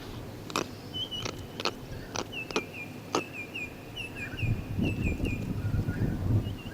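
A bird chirping, short high calls repeated in a quick series, with several sharp clicks in between and a low rumble of wind on the microphone in the second half.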